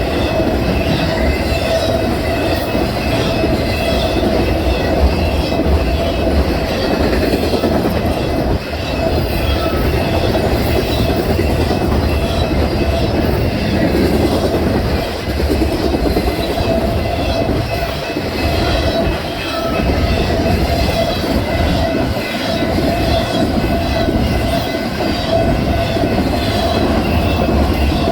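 Railroad cars rolling past on the track, a continuous steady clatter with a thin, sustained squeal from the wheels.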